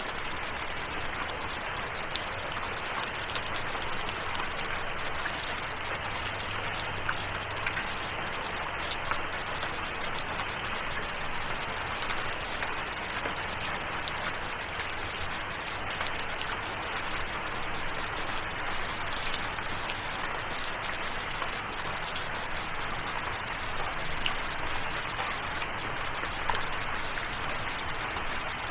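Steady rain: a dense, even hiss of falling water with many small, sharp drop ticks scattered through it.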